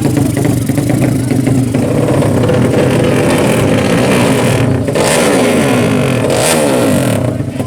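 Racing motorcycle engines revving hard, more than one at once. Their pitches sweep up and down and cross each other from about two seconds in.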